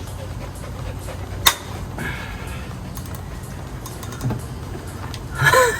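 A wrench working on a motorcycle's oil drain fittings: a sharp metallic click, a few small knocks, then a short loud creaking squeak that rises and falls in pitch near the end.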